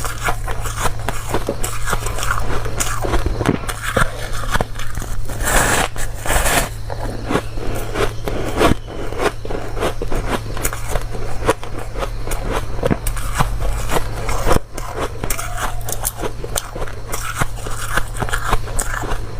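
Close-miked biting and chewing of dry, crunchy ice, a dense run of crunches and crackles with no pauses, over a steady low hum.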